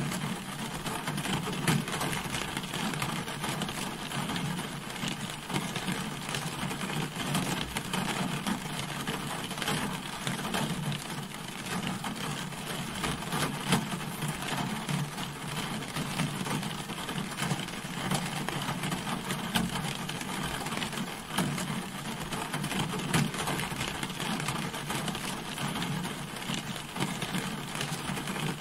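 Steady rain falling on a car's body: a dense, even patter of drops with an occasional louder hit standing out.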